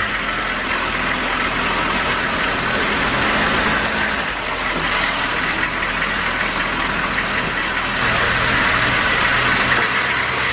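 Pickup truck engine idling steadily, with a steady high hiss over it.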